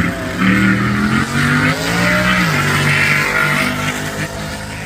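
Drag-racing engine, a Volkswagen Beetle drag car, accelerating hard down the strip. Its pitch climbs, drops sharply about halfway through at a gear change, then climbs again.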